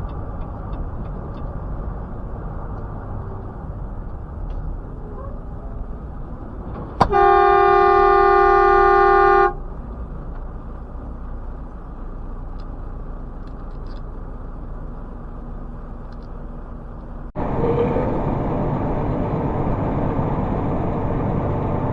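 Steady road noise of a moving car, with one car horn blast held on a single pitch for about two and a half seconds, some seven seconds in. Near the end the road noise turns suddenly louder.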